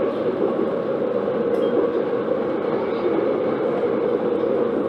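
Steady running noise of an MTR Ma On Shan line IKK-Train electric multiple unit under way, heard on board: an even rumble of the train moving along the track.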